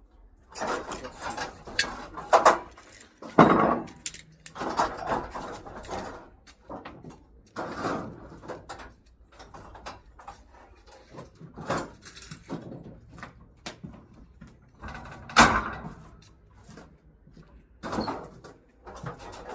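Irregular clanks, knocks and rattles of scrap items being handled and sorted, with a few louder bangs, the loudest about three and a half seconds in and again about fifteen seconds in.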